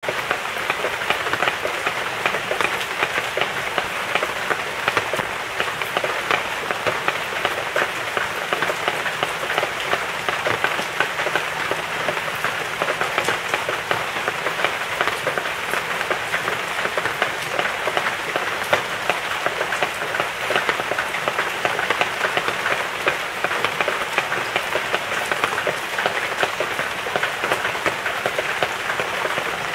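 Steady rain falling on a surface: a dense, even patter of countless drops that starts abruptly and keeps up without let-up.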